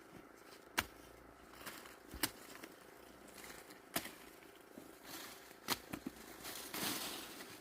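Dry corn plants rustling, with four sharp snaps spaced about a second and a half apart, typical of ears of corn being broken off the stalks by hand.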